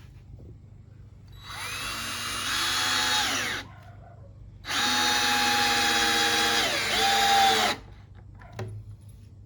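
Power drill driving screws into wooden 2x4 framing: two runs of a couple of seconds each, the motor whine dropping in pitch under load near the end of each run before it stops. A short knock follows near the end.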